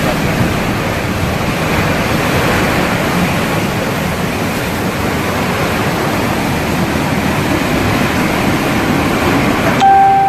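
Hurricane wind blasting across the microphone: a loud, steady rushing. Near the end it cuts off sharply and a steady electronic-sounding tone begins.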